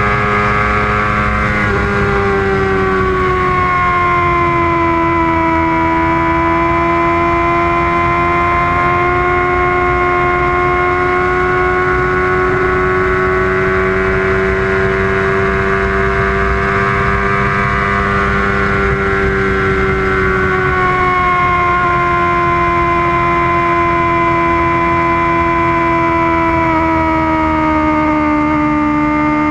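Kawasaki Ninja ZX-6R's inline-four engine running at high revs at speed, giving a steady high whine. The pitch sags gently a few times as the throttle eases, then holds or climbs back, over a low wind rumble.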